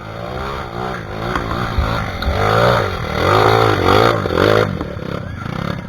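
Trail dirt bike engine revving up and down repeatedly in quick blips, loudest in the middle.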